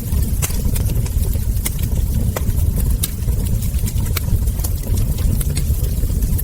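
Wood fire crackling: irregular sharp pops and snaps from burning logs and embers, a few every second, over a steady low rumble of the flames.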